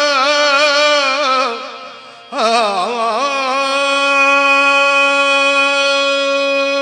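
Gurbani kirtan singing in long drawn-out notes. The first note wavers and fades out about a second and a half in. Just after two seconds a new note comes in, slides, and settles into one long steady held note.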